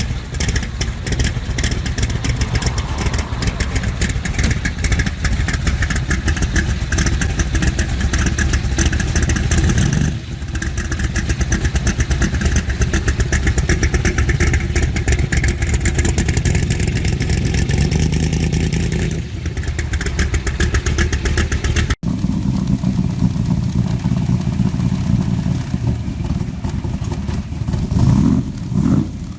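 Shelby Cobra 427 V8 engine running hard with a rapid, dense exhaust pulse, broken by brief drops in sound about ten and nineteen seconds in. The recording then changes, and near the end the engine is revved up and down a few times.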